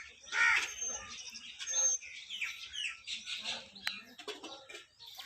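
Small birds chirping, with a crow cawing once about half a second in and a single sharp click near the end.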